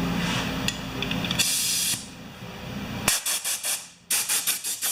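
Dewalt 4-gallon air compressor running with a steady hum and a short blast of air hiss, then the motor drops away and compressed air spits from the line in rapid short bursts, several a second, as an air trigger is pulsed.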